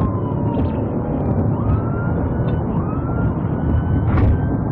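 Police car siren wailing, its pitch sliding slowly down and up, over steady engine and road rumble, with a short click about four seconds in.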